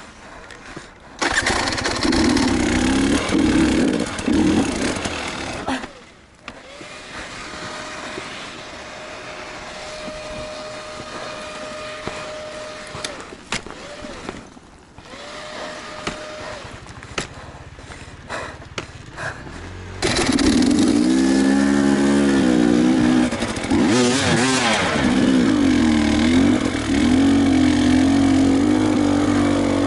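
Off-road enduro motorcycle engine running and revving, its pitch rising and falling. It is loud for a few seconds near the start, quieter through the middle, and loud again from about two-thirds of the way in.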